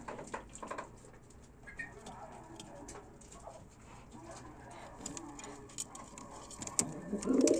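Domestic pigeon cooing, louder from about seven seconds in, over faint scattered clicks.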